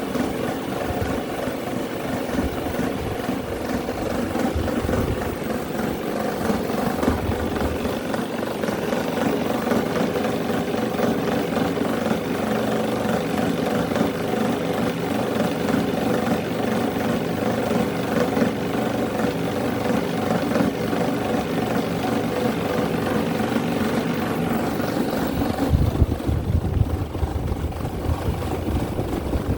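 Several electric fans and small homemade motor fans running together: a steady motor hum with the whir of spinning blades. A low rumble comes in near the end.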